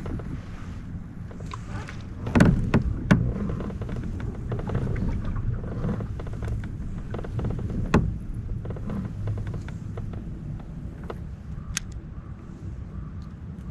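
Steady low rumble with a few sharp knocks against a fishing kayak, the loudest about two and three seconds in and another about eight seconds in.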